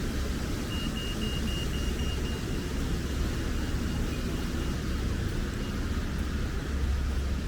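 Outdoor city street ambience: a steady low rumble over a hiss, of the kind traffic or wind on the microphone makes. About a second in, a run of short high-pitched beeps, about four a second, starts up and fades away over the next few seconds.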